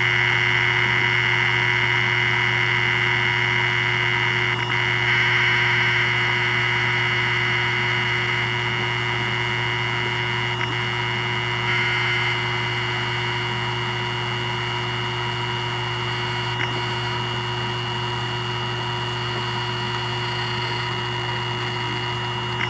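Western Digital WD400BD hard drive running a surface scan: a steady high-pitched whine over a low hum, with a few brief ticks and changes in tone from the heads now and then. This is the odd noise the drive makes when it is scanned.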